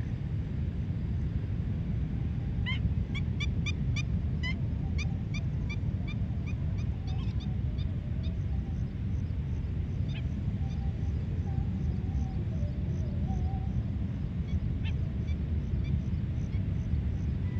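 A bird calling in a rapid series of short, high, falling notes, about two a second, that thins out after several seconds. Behind it is a steady low rumble.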